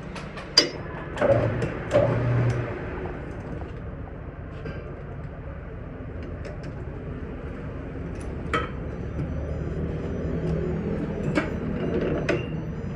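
Scattered sharp clicks and knocks of metal parts or tools over a steady low hum, the strongest knocks in the first few seconds.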